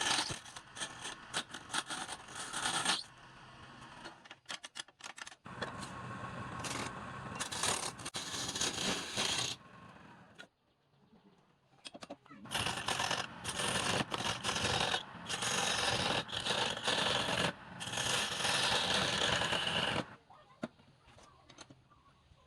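Hand tool cutting wood on a spinning lathe, a harsh scraping in spells of a few seconds with short pauses between. It falls away shortly before the end.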